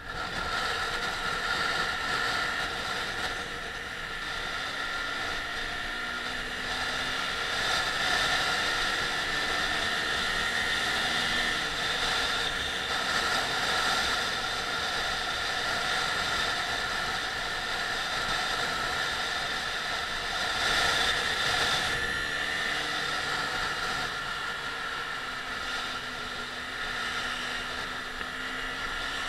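Hyosung GT125's 125 cc V-twin engine running under way on a motorcycle, with wind rush over it. It grows loud right at the start as the bike pulls away, and twice rises slowly in pitch as it accelerates.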